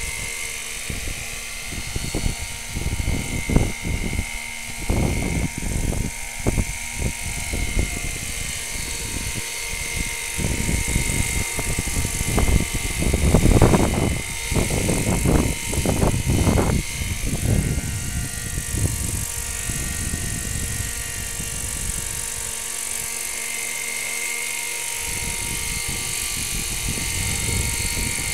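Small engine of a radio-control model aircraft running steadily with a high whine. Irregular low rumbling comes and goes over it, heaviest in the middle.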